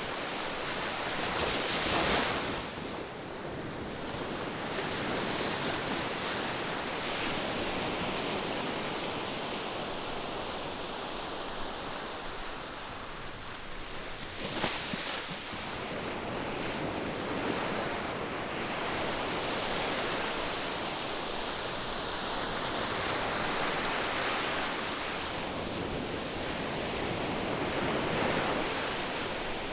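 Distant ocean surf: a steady wash of breaking waves that swells and eases slowly, with two brief louder rushes, one about two seconds in and one about halfway through.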